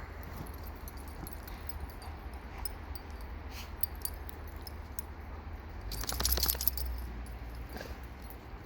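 Metal dog collar tags jingling as dogs play, loudest in a burst about six seconds in, over a steady low rumble.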